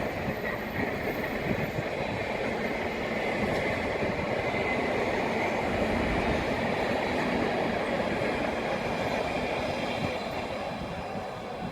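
Train running along the main-line track, a steady rumble of wheels on rail with a faint steady whine, easing off near the end.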